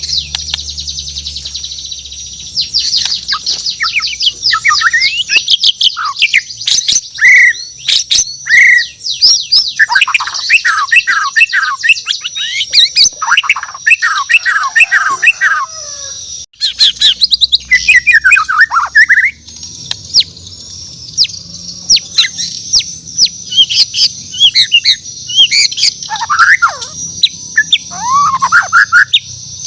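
Bornean white-rumped shama (murai batu Borneo) singing a long, varied song: rapid high chirps and trills mixed with lower whistled notes that slide up and down, with a momentary break about halfway through.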